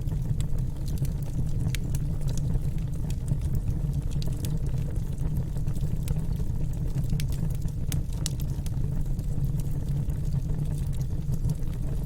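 Wood fire burning in a fireplace: a steady low rumble of the flames with scattered sharp crackles and pops from the burning wood, a few louder ones near the middle and toward the end.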